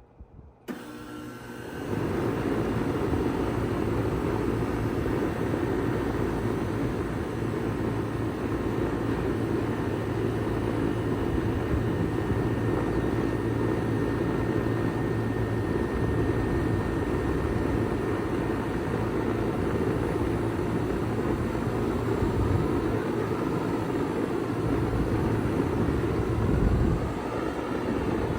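2004 Bard wall-hung heat pump starting up in heat mode: about a second in the compressor and fan come on, rising within a second or so to a steady run with a low compressor hum under the rush of the fan.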